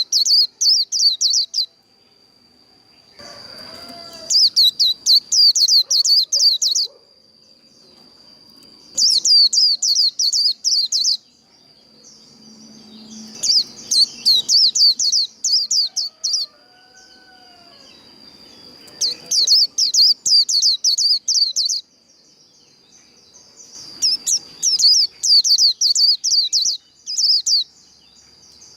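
Japanese white-eye singing its rapid, high twittering 'líu' song in bursts of two to three seconds, about every five seconds, over a steady thin high tone.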